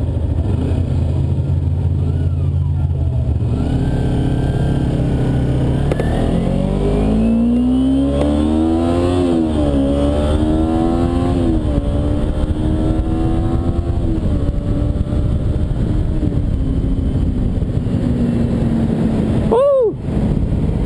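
2009 Kawasaki Ninja 250R parallel-twin engine under way. The revs climb and fall back sharply twice as it shifts up through the gears, then settle to a steady cruise, over constant wind noise. Near the end there is a brief dropout.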